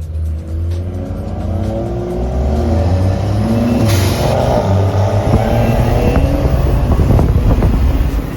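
A car engine revving hard under acceleration, its pitch gliding up and down. It grows louder over the first few seconds and then stays loud.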